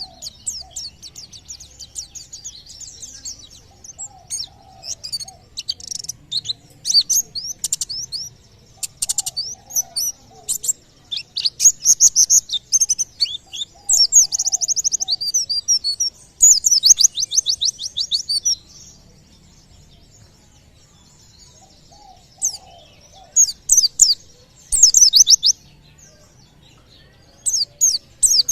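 White-eye (pleci) singing: bursts of high chirps and fast rattling trills, broken by a pause of a few seconds about two-thirds through.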